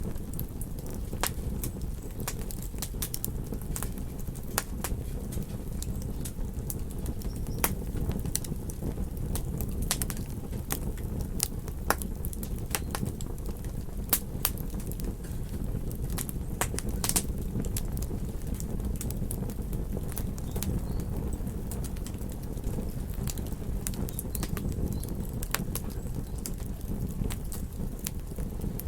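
Campfire crackling: frequent sharp snaps and pops, irregularly spaced, over a steady low rumble.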